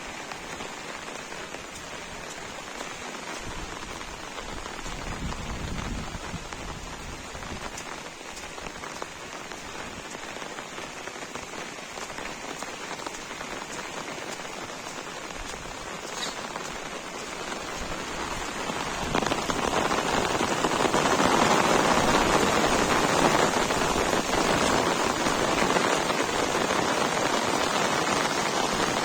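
Heavy rain pouring down steadily, growing louder about two-thirds of the way through.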